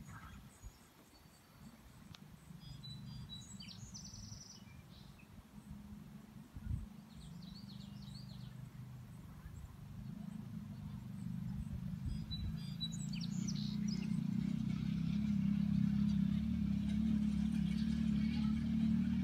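Birds chirping in a few short bursts over a low rumble that grows steadily louder through the second half.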